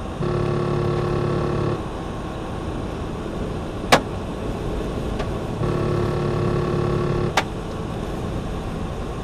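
Steady road and engine noise inside a moving truck's cab. A steady pitched tone sounds twice for about a second and a half each, and there are three sharp ticks.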